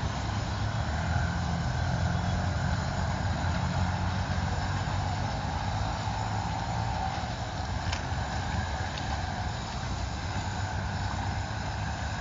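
Low, steady rumble of a Mumbai suburban EMU local train running away down the line, fading slowly as it goes.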